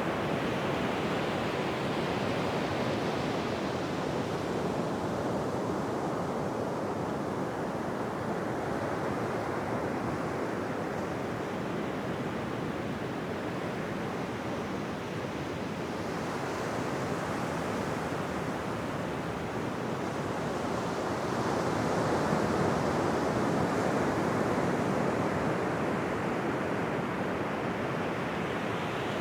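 Ocean surf washing on a beach: a steady rush of waves that swells and fades slowly, with one larger wave building in the second half.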